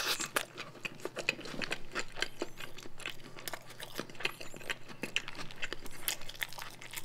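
Close-miked chewing of a fried chicken burger: an irregular run of small crunches and mouth clicks.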